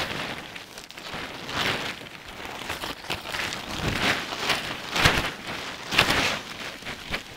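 Rustling and swishing, several noisy swells about a second apart, from gear or fabric being handled.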